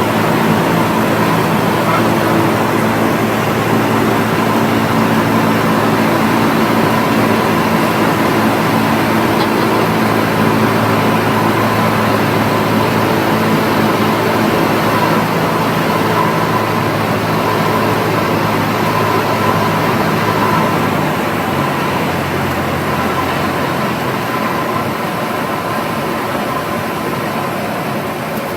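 Cessna 172's piston engine and propeller drone steadily over a rush of air. Over the last third the engine note drops a little and the sound slowly gets quieter, as power comes back for the landing.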